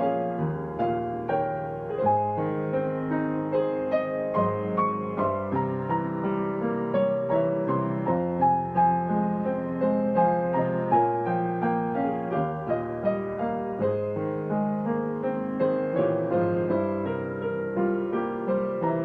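Solo digital piano playing a song without words: a steady flow of melody notes over sustained low chords, two or three notes struck each second.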